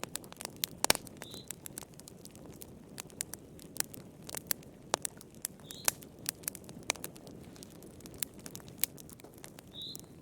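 Wood fire in a fireplace crackling: irregular sharp pops and snaps, several a second at times, over a soft steady low hiss of the flames. Three short high chirps are heard, about a second in, near the middle, and near the end.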